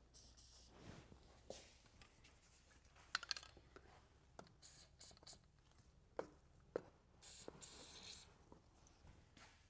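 Short bursts of penetrating oil sprayed from an aerosol can onto rusty bolts, a cluster of brief hisses in the middle and a longer hiss of about a second near the end, with a few sharp clicks between them.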